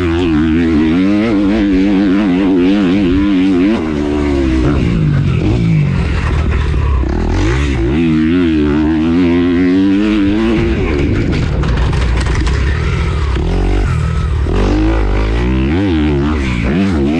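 Dirt bike engine being ridden hard, its revs rising and falling over and over as the rider works the throttle and gears.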